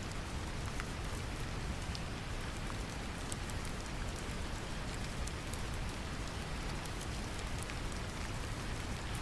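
Brown noise, a deep, steady rumbling hiss, mixed with rain falling on a surface, scattered drop ticks showing over it.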